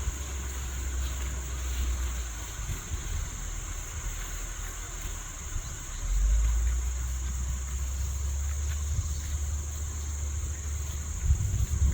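Steady high-pitched chorus of insects trilling in pasture grass, over a low rumble that grows louder about six seconds in.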